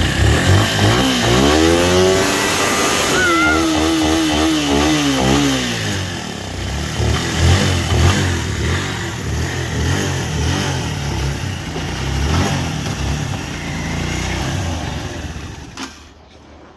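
Motorcycle engine revving. Its pitch climbs in the first seconds and then wavers up and down as the throttle is worked. After that it runs on with an uneven low sound that fades near the end.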